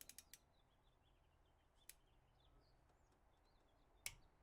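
Near silence, with a quick run of small clicks at the start and single sharp clicks about two and four seconds in, from hand tools on an adjustable checking pushrod during pushrod-length measurement. Faint bird chirps sound throughout.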